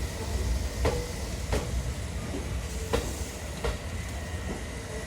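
JR East 253 series electric train rolling slowly on arrival, with a low running rumble and four sharp wheel clicks over rail joints, in two pairs about two seconds apart.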